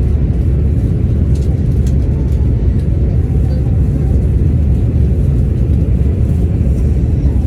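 Haramain high-speed train running at speed, heard from inside the passenger car as a steady, loud low rumble.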